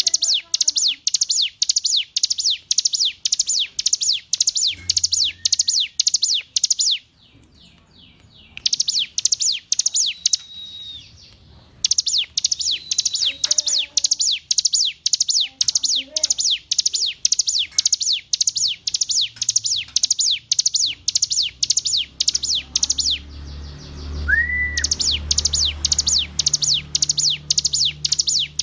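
Ciblek gunung (hill prinia) singing: a rapid, insistent series of sharp, high chirps, about four or five a second, broken by short pauses about a quarter of the way in, again a little later, and once near the end.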